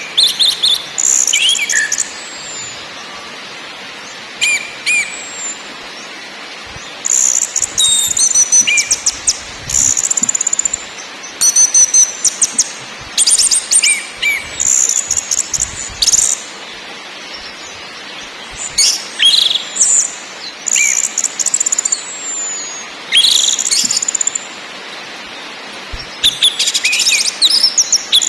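Orange-headed thrush (anis merah) singing in bouts of rapid, high, varied phrases with short pauses between, over a steady hiss.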